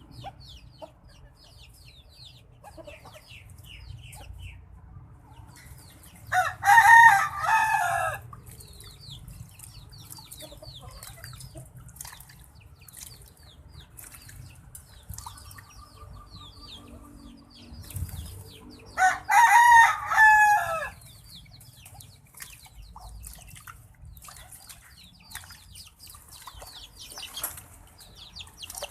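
Birds calling: two loud, harsh calls of about two seconds each, the first about six seconds in and the second about twelve seconds later, over faint, quick, high chirping.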